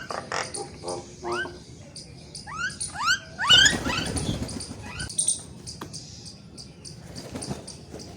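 Sparrows chirping over and over, mixed with a run of short rising bird calls in the first few seconds and one loud harsh call about three and a half seconds in.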